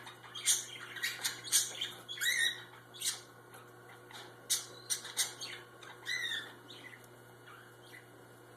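Cockatiel chicks about three and a half weeks old giving short, high squawks and chirps, one or two a second, a few with a quick rising-and-falling pitch; they thin out near the end.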